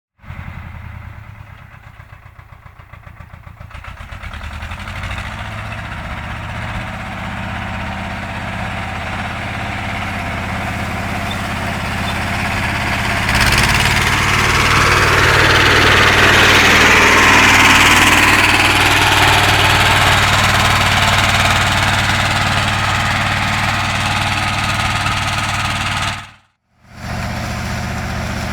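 BJR Falcon 40 articulated tractor engine running, slow and pulsing at first, then working harder and growing steadily louder. About 13 s in, a louder rushing, clattering layer joins it and gradually fades. The sound cuts out briefly near the end and the engine then carries on.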